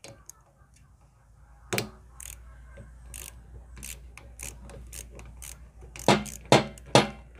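Metal tools clicking and knocking on a removed starter motor while it is taken apart: a run of small clicks, then four sharp knocks about half a second apart near the end.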